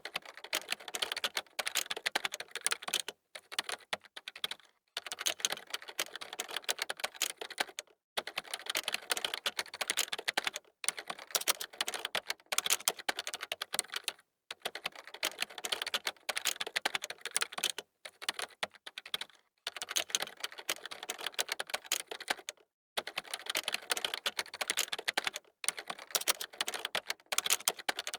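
Computer keyboard being typed on quickly, rapid runs of key clicks broken by brief pauses every few seconds.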